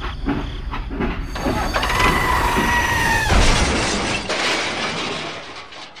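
Train collision sound effects: rhythmic clacking of a train on its track, then a steady horn-like tone for about a second and a half, then a crash that dies away over the last couple of seconds.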